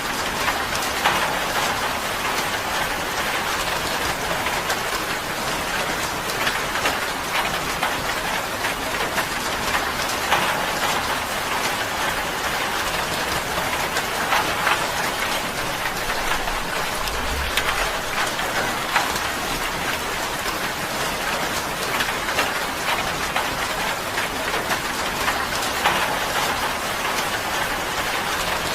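Steady rain drumming on a tin roof, a dense even patter of drops striking the metal.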